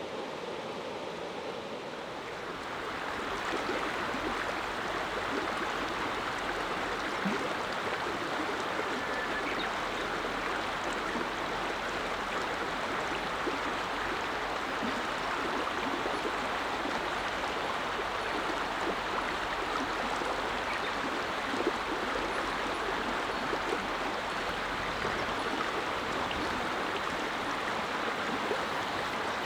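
Clear mountain river flowing over stones: a steady rushing murmur of water that grows louder about three seconds in, then holds steady.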